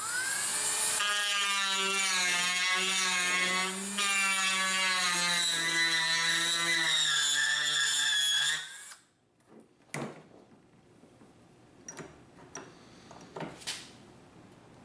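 Dremel rotary tool spinning up and grinding into the wooden rifle stock, deepening the channel for the nose cap; its whine wavers and sags in pitch as it bites, then shuts off about eight and a half seconds in. A few light knocks follow.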